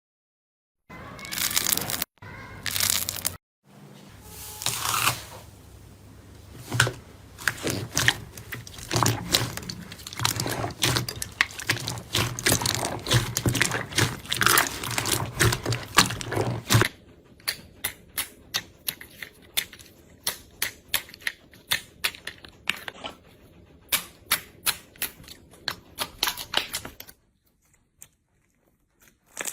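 Slime being squeezed and pressed by hand: a dense run of crackles and pops, then for about the last third a sparser run of sharp clicks, roughly two a second.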